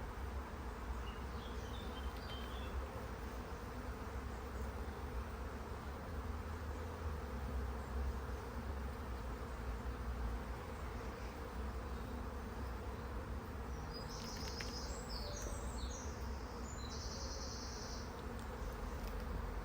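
Honeybees buzzing steadily in large numbers around an open, crowded hive. A few brief high-pitched chirps come about three quarters of the way through.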